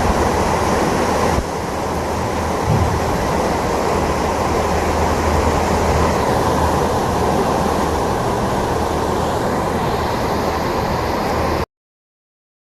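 Loud, steady rush of torrential floodwater, with a slight drop in level a little over a second in. It cuts off abruptly to silence about a second before the end.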